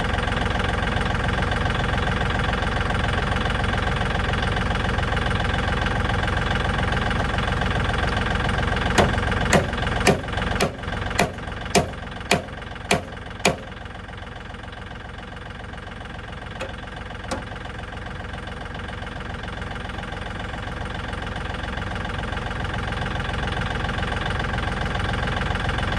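Tractor engine running steadily. About nine seconds in comes a run of eight sharp knocks, about two a second, after which the engine quietens and then slowly builds again.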